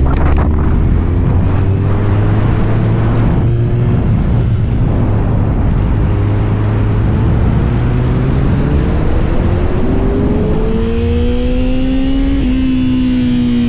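Motorcycle engine accelerating under way, its pitch climbing steadily and falling back at gear changes about four seconds in and again near the end, over a steady rush of noise.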